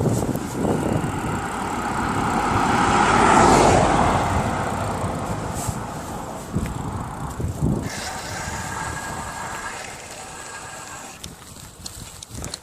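A car driving past, its engine and tyre noise swelling to its loudest about three and a half seconds in and then fading away.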